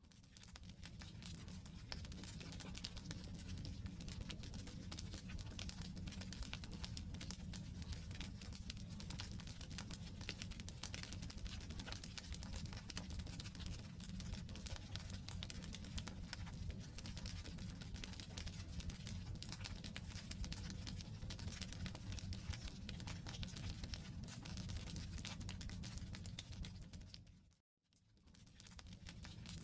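Firewood campfire burning: dense, steady crackling and popping of the logs over a low rumble of the flames. The sound drops out to silence for a moment about 28 seconds in, then resumes.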